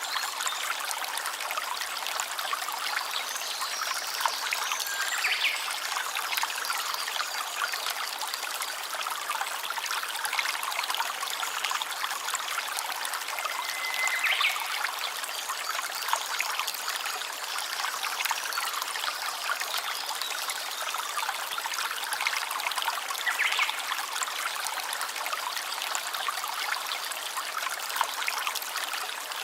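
Small stream trickling and babbling steadily, with a few faint short high notes now and then.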